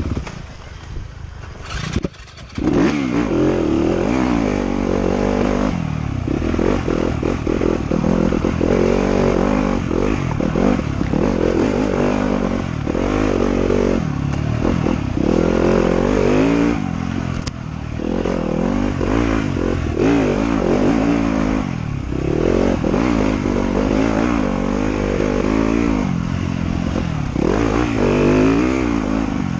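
Trail motorcycle engine being ridden hard, its pitch climbing and falling over and over as the throttle is worked and the bike shifts, with clattering from the rough ground. The engine drops off briefly about a second in, then picks back up.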